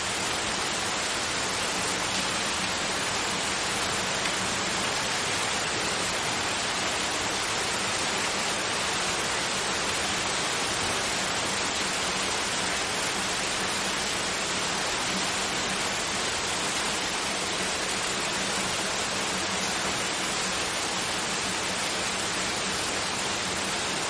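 Continuous white noise: an even, unchanging hiss, with a faint low hum held steady beneath it.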